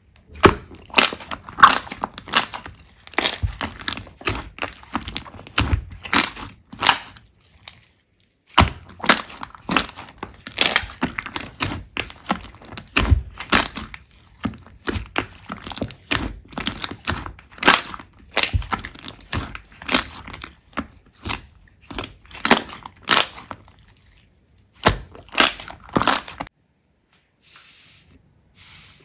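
Slime being squeezed and pressed, giving a rapid run of sharp crackles and pops. There is a brief silent break about eight seconds in, and the crackling stops shortly before the end.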